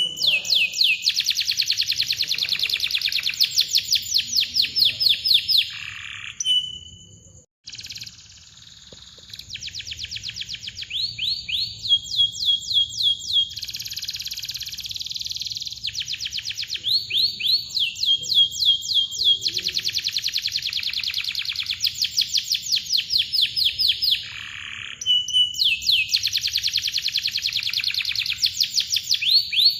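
Domestic canary singing in long, tight trills ('rolls'): runs of fast, evenly repeated chirps broken by short held whistled notes, with a brief pause about seven seconds in.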